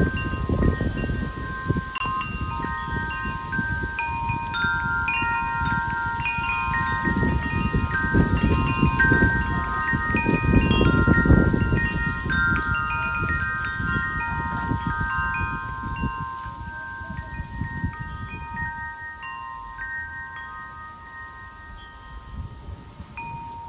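Wind chimes ringing irregularly in the wind, several tones overlapping and sustaining. Wind rumbles on the microphone underneath, gusting strongest about ten seconds in and easing off near the end.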